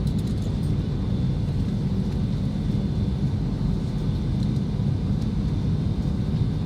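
Steady low rumble of an airliner cabin while the jet taxis on the ground, with a faint, steady high-pitched whine over it.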